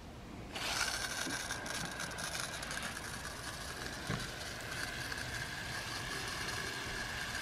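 Water spraying from a 16-inch DRAMM RainSelect watering wand on its rain setting. The spray starts suddenly about half a second in and hisses steadily, with a steady tone running through it.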